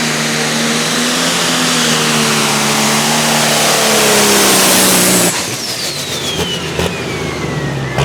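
Turbocharged diesel engine of a super stock pulling tractor running flat out under load, its pitch slowly sagging, then shut off abruptly about five seconds in. A high whistle then glides steadily down as the turbochargers spool down.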